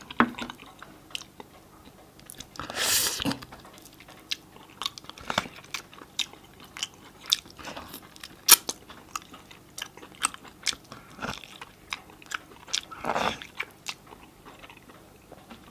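Close-miked mouth sounds of a person biting and chewing the meat and marrow off a large cooked buffalo bone: wet chewing with many sharp crunchy clicks, and two longer, louder noisy sounds, one about three seconds in and one near thirteen seconds.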